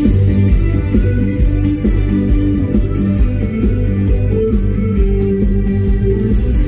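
Backing track of a trot song playing loud over a stage PA: the instrumental intro, with electric guitar over a steady bass and drum beat.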